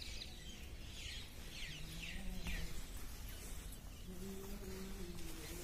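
A bird calling with a run of short, quickly falling notes in the first two and a half seconds, over a steady low rumble. A faint low drawn-out tone comes twice, near the middle and again later.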